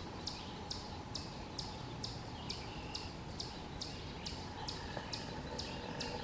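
Hairy woodpecker nestling begging with short, high call notes repeated evenly, a little over two a second, over a steady low background rumble.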